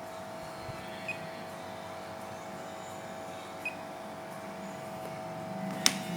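Steady electrical hum from a UPS unit, with two short faint high beeps and a sharp click near the end.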